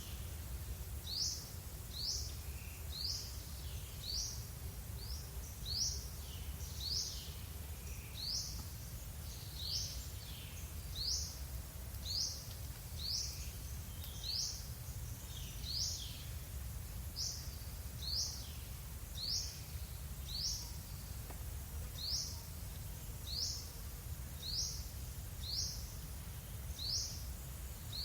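A small bird repeating a short, high, sharp chirp about once a second, steadily and without pause, over a low steady background rumble.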